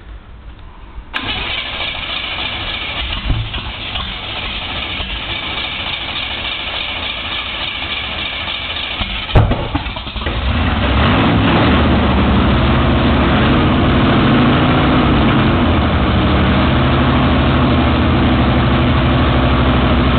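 Mechanically fuel-injected small-block V8 race engine in a VW Beetle drag car being started: several seconds of steady cranking, a sharp bang at about nine seconds, then the engine catches and runs at a steady, loud idle.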